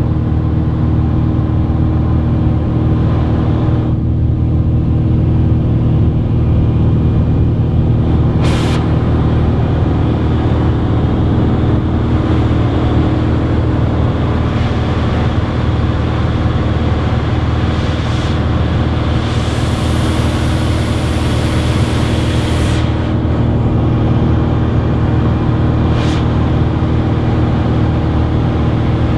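Cessna 182's piston engine and propeller droning steadily. A few short bursts of hiss come over it; the longest is about three seconds, a little past the middle.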